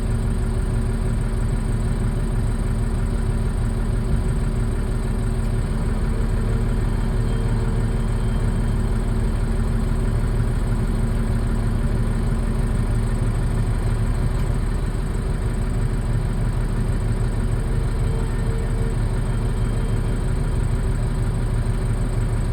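A vehicle engine idling steadily: a constant low hum with a few fixed tones over a rumble.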